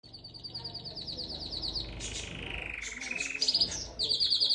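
Domestic canary singing: a fast trill of rapidly repeated high notes, then a lower rolling phrase that slides down in pitch about two seconds in, then another fast, high trill.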